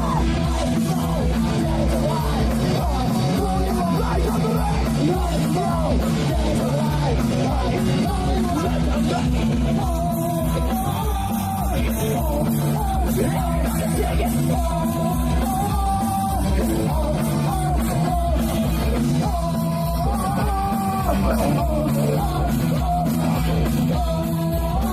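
Punk rock band playing live: loud, fast rock music with a steady drum beat, electric guitar and shouted singing.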